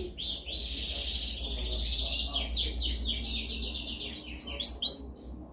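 Domestic canary singing: fast, rolling trills and runs of quickly repeated notes, then a few louder, separate notes, with the song stopping just before the end. A steady low hum lies underneath.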